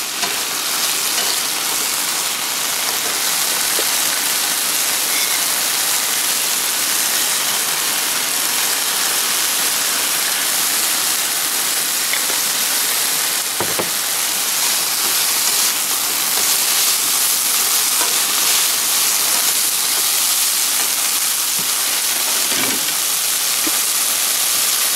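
Chicken pieces sizzling in a frying pan on a propane camp stove, a steady hiss as the meat browns and steams. A single light knock about fourteen seconds in.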